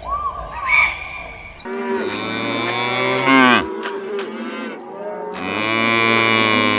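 Cow mooing: two long moos with a pause of under two seconds between them, the first ending with a drop in pitch. Short chirping calls come before the first moo.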